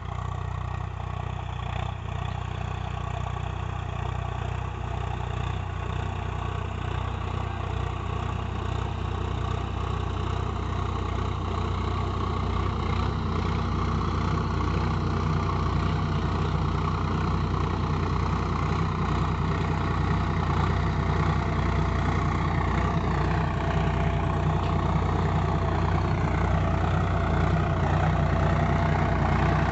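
Swaraj 744 XT tractor's diesel engine running steadily while pulling a cultivator, growing gradually louder over the span.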